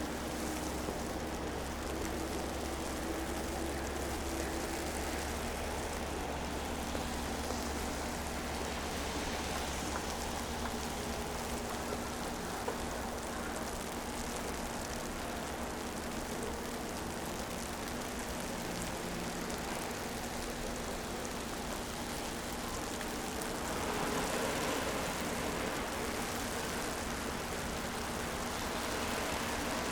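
City street ambience in a wet snowfall: a steady wet hiss with the low hum of passing traffic and a steady engine tone that stops about twenty seconds in. The hiss grows a little louder near the end.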